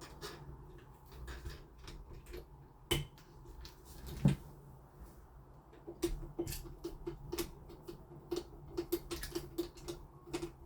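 Lock fittings and hand tools handled during a door-lock installation: scattered light clicks, two sharper knocks about three and four seconds in, then a quick run of small clicks through the second half.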